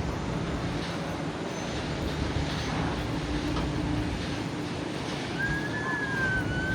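Airbus A321 jet engines running at taxi power: a steady low rumble and rush, with a brief high whistling tone starting about five seconds in.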